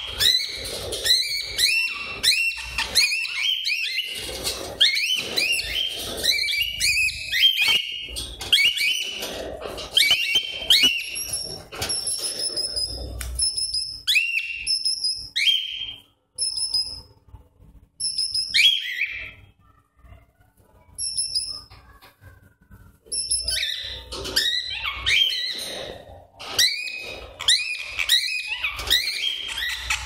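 Caged pet birds chirping and calling in quick, repeated short notes that slide down in pitch. Past the middle they thin out for several seconds to a few thin, high whistles, then turn busy again.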